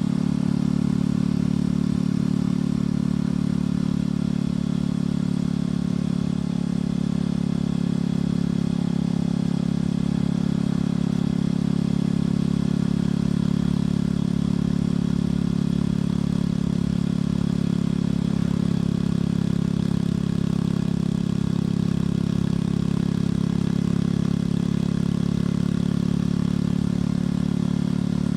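Motorcycle engine and exhaust running at a steady cruise, a constant low drone that holds one pitch with no revving or gear changes.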